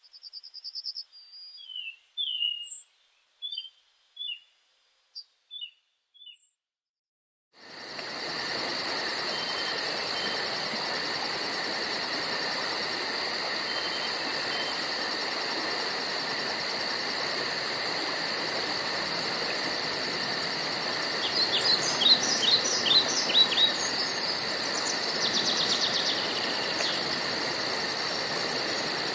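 Birds calling in short, separate chirps over silence. About seven seconds in, a steady chorus of insects starts suddenly, with a fast even pulsing and a hiss under it, and more birds chirp over it later on.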